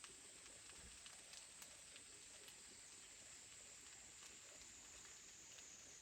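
Near silence: faint outdoor ambience with a steady high-pitched tone and a few faint ticks.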